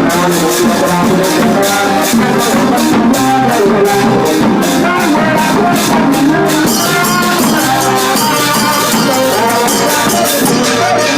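Thai brass band (trae wong) playing: horns carrying a melody over a steady drum and cymbal beat, the cymbals getting busier about two-thirds of the way through.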